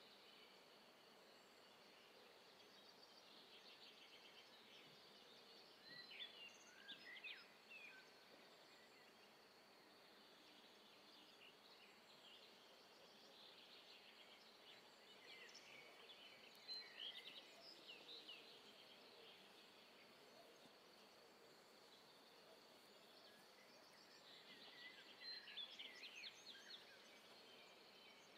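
Near silence: faint outdoor ambience with a steady high hiss, broken three times by short spells of birds chirping, about six, sixteen and twenty-five seconds in.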